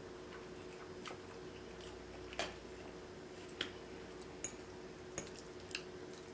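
Close-miked chewing of a mouthful of sauced noodles, with about five short, sharp wet clicks through the middle and end, over a faint steady hum.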